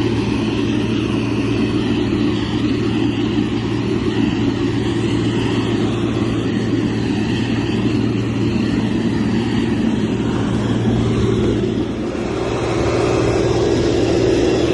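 Motor grader's diesel engine running steadily under load, with a deep hum. It dips briefly about twelve seconds in, then picks up and runs louder.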